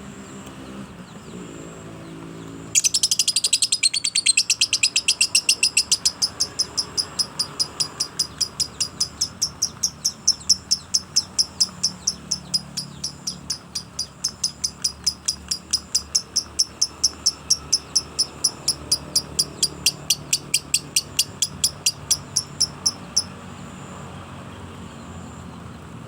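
A songbird giving a long, steady series of sharp high chirps, about three or four a second, starting about three seconds in and running for some twenty seconds. This is a young or practising bird working on its song.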